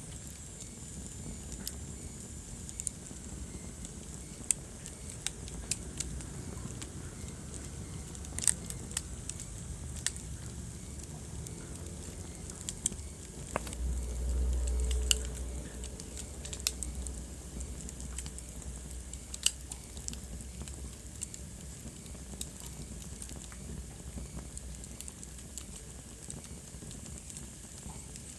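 Wood fire burning in a fireplace: irregular sharp crackles and pops over a low rumble of flame, which swells briefly about halfway through.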